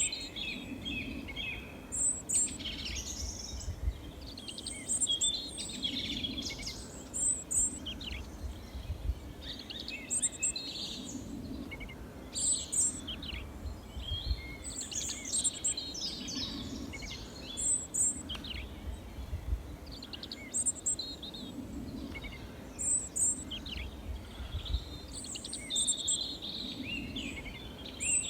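Small songbirds chirping and singing, with a quick high call recurring every two to three seconds among busier twittering, over a steady low rumble.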